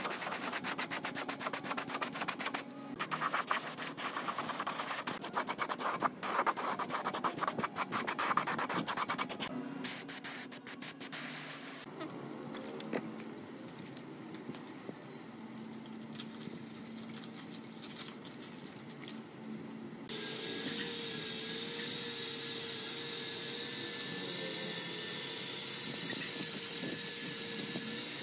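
Rapid back-and-forth sanding strokes on a metal gearbox part for about twelve seconds, then quieter. About twenty seconds in, a steady hiss of running water starts abruptly.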